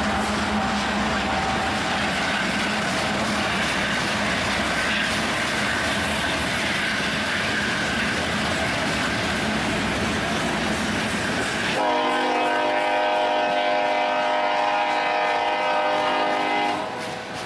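A train rolling by on the rails, then a locomotive horn sounds one long steady chord for about five seconds, starting abruptly about twelve seconds in and cutting off sharply.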